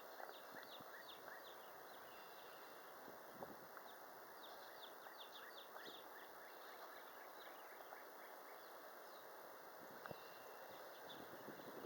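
Faint bird chirping: clusters of quick, high, falling chirps over a low steady hiss, near silence overall.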